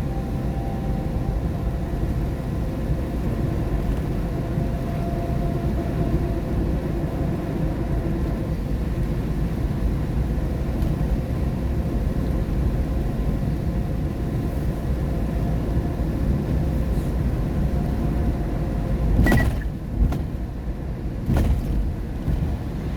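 Steady road and tyre noise inside a car driving in the rain: a low rumble with a faint engine hum. Near the end, a few sudden louder noises break through.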